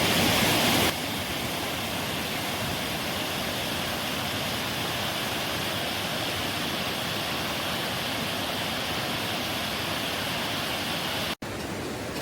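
Steady rushing of a rocky hill-country stream flowing fast under a suspension bridge, a little louder for the first second, with a sudden brief break near the end.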